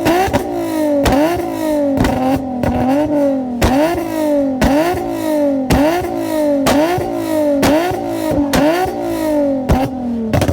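A car engine revved over and over, about once a second: each rev climbs quickly and falls back slowly, with a sharp crack as each one begins.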